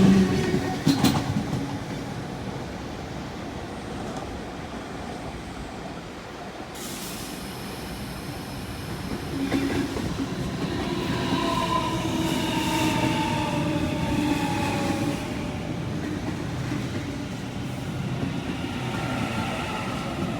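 A train running along the tracks, a steady rumble joined from about ten seconds in by a whine that slides down in pitch.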